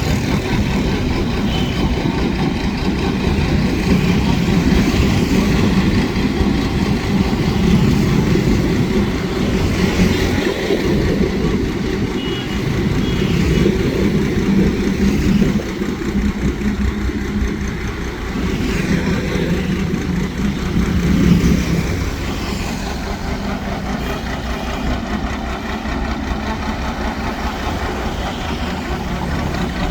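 Engine of a homemade mud suction boat running steadily under load, with a slight drop in level about halfway through.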